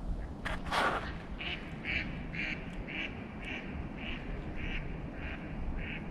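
A duck quacking over and over at a steady pace of about two calls a second. Just under a second in there is a brief, louder noisy sound.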